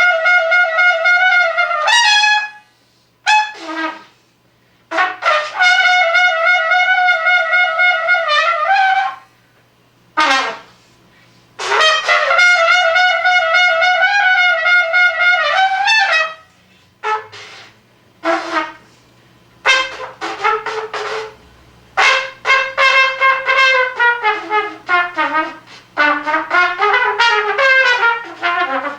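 Solo brass instrument playing unaccompanied: long held notes with vibrato broken by short pauses, then a run of quick short notes and bent, falling notes in the last third.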